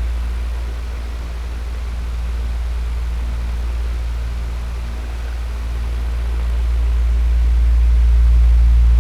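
Electric fan running: a steady deep rumble with a faint hum and a light airy hiss. It eases slightly in the first half and swells louder toward the end.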